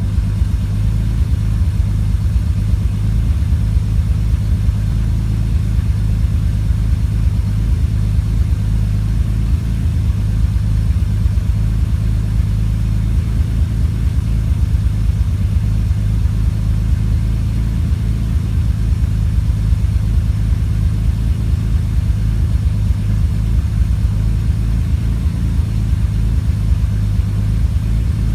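Car engine idling with a misfire, running with an uneven low pulse that stumbles irregularly instead of beating evenly.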